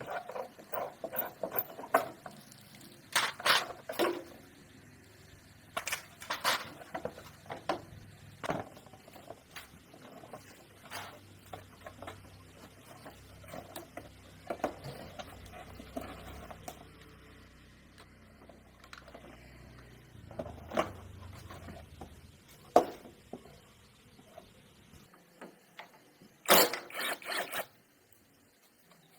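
Irregular metallic clicks, taps and clinks of hand tools and small parts being handled, with a quick cluster of sharper knocks near the end. A faint low hum runs underneath and stops a few seconds before the end.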